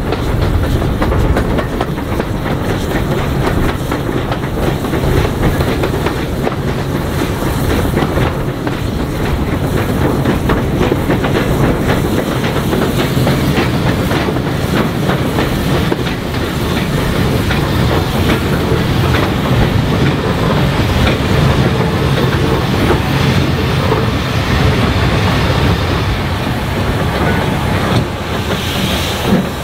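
Steam-hauled heritage train running along the line: a steady rumble with the wheels clicking over rail joints.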